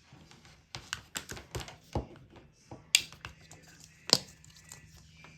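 A series of sharp clicks and light knocks, the loudest about three and four seconds in, from the LED bulb and its lamp being handled and switched during a test, with a faint steady low hum setting in partway through.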